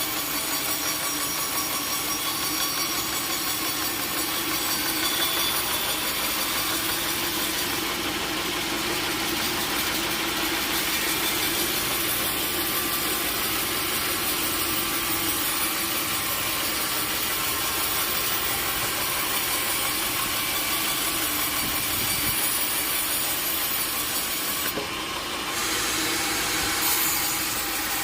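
Sawmill saw cutting steadily through a large log, a continuous running noise with a steady whine, dipping briefly near the end.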